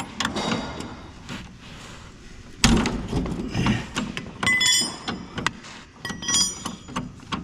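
Hand work on metal parts: scattered knocks and clicks, a heavier thunk about two and a half seconds in, then short ringing clinks and jingles of metal pieces, twice.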